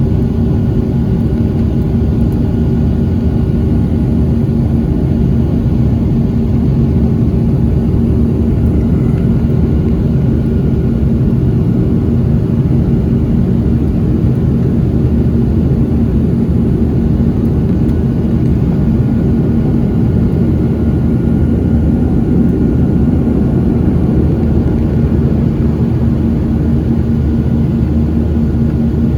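Airliner jet engines heard from inside the cabin during takeoff: a steady, loud rumble with a few held tones riding on it.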